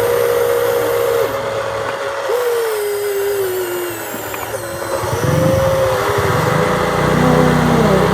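Electric hydraulic pump of an RC excavator whining, its pitch holding, stepping and sliding down and up as the load changes. A lower, rougher motor sound joins about five seconds in.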